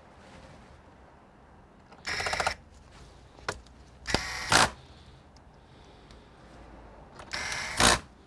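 Three short bursts of rapid mechanical buzzing from a small motorised tool, each about half a second long and ending louder, with a single sharp click between the first two.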